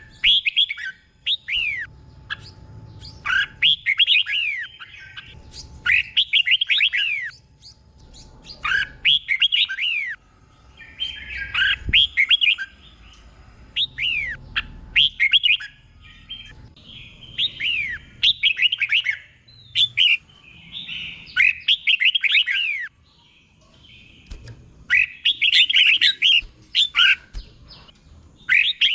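Red-whiskered bulbul singing: short, bright phrases of quick falling whistled notes, repeated every second or two with brief pauses between them.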